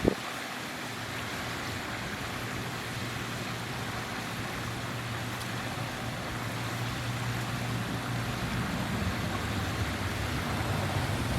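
A steady hiss of outdoor noise with the low hum of a distant engine, growing slightly louder toward the end.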